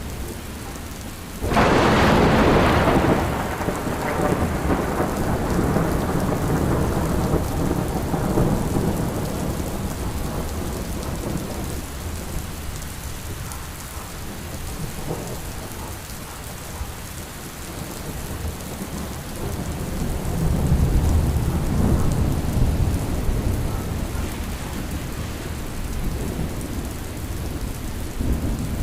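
Steady rain with a sudden sharp thunderclap about a second and a half in that rolls off into a low rumble over several seconds, then a second, softer roll of low thunder about two-thirds of the way through.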